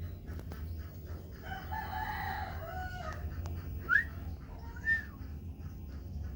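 A rooster crowing once, a long call of about a second and a half, followed by two short, sharp rising calls about a second apart, over a steady low hum.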